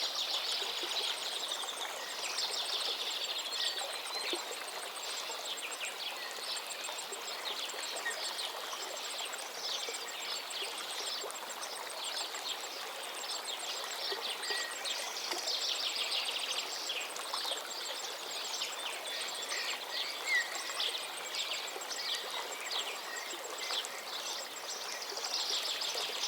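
Many birds chirping and twittering over a steady rush of running water.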